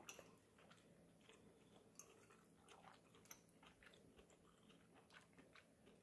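Faint chewing of a mouthful of braised chicken and shiitake mushroom, with small scattered mouth clicks, a couple of them sharper about two and three seconds in.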